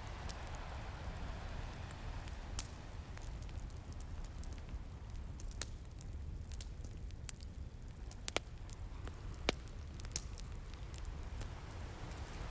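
Wood fire crackling, with scattered sharp pops, over the low steady rumble of ocean surf. A wave washes in near the end.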